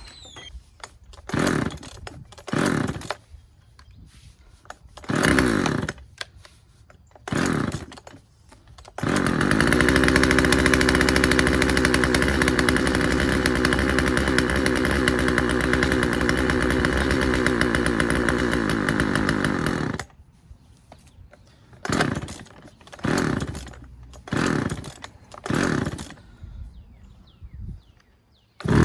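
Husqvarna 136 two-stroke chainsaw being pull-started: a few short bursts of cranking, then the engine catches at about 9 seconds and runs steadily for about eleven seconds before cutting out suddenly, followed by more pulls. It wants to run but stalls, which the mechanic puts down to the low-speed mixture setting of its newly fitted carburetor needing a slight adjustment.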